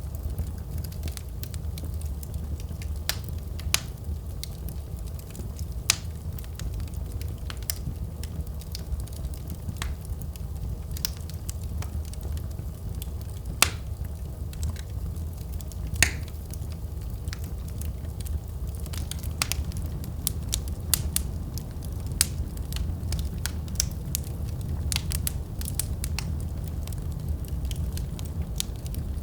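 Wood fire burning in a fireplace: a steady low rumble of the flames with irregular crackles and sharp pops, the loudest pops about 14 and 16 seconds in.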